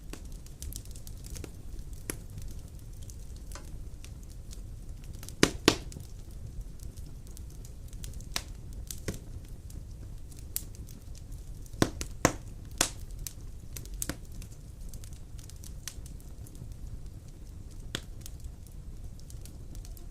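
Large wood logs burning in a stone fireplace: a steady low rumble of flames with scattered sharp crackles and pops, the loudest cracks coming in two clusters, one a third of the way in and one near the middle.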